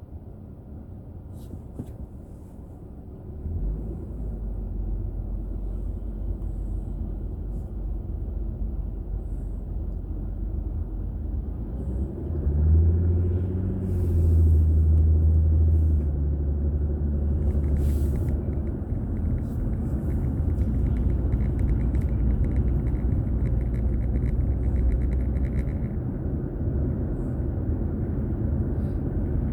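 Car engine and road rumble heard through a dashboard drive recorder. It is quiet at first, then the low rumble rises, and about twelve seconds in the engine note climbs as the car accelerates, then settles into a steady drone.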